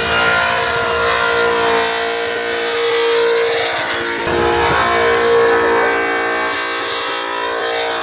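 A car engine held at high, nearly steady revs, its pitch wavering slightly, as in a burnout.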